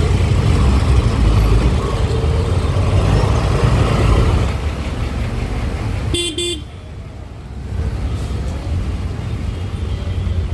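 Road and wind rumble of riding through traffic, with a vehicle horn giving two quick short toots about six seconds in.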